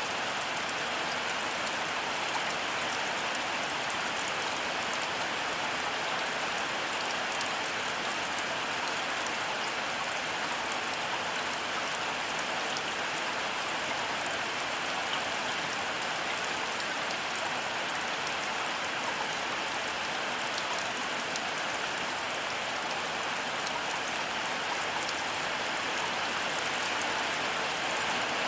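Heavy rain falling steadily, a dense even hiss of drops hitting surfaces, with no thunder and no change in intensity.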